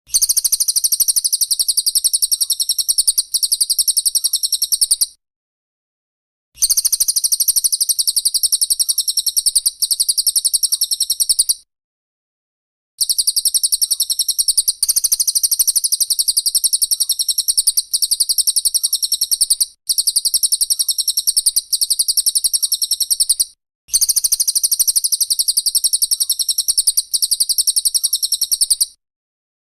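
High-pitched, very rapid rattling trill of a songbird, the dense "tembakan rapat" delivery. It is repeated in stretches of about five seconds separated by short silences.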